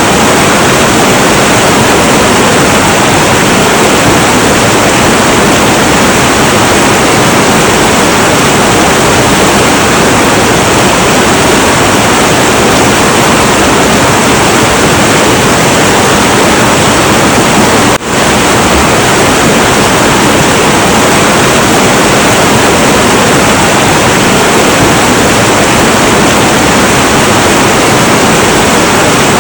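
Heavy, turbulent river water rushing, a loud steady roar spread evenly from low to high pitch, with one momentary drop in level about two-thirds of the way through.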